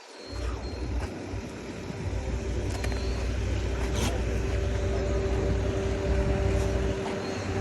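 A motor vehicle's engine running close by, starting suddenly and growing louder over the first few seconds, with a steady hum over a low rumble.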